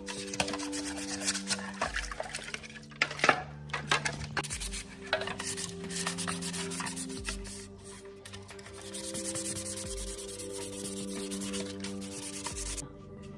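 Rapid rubbing strokes, scrubbing by hand at a hard surface, over background music with sustained notes and a soft low beat about every second and a half. The rubbing pauses around eight seconds in, then comes back louder.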